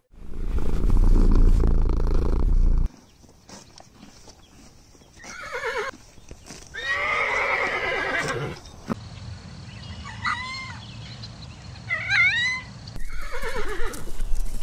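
A loud low rumble for the first three seconds, then horses neighing: several whinnies, each falling in pitch, the longest and loudest about seven seconds in.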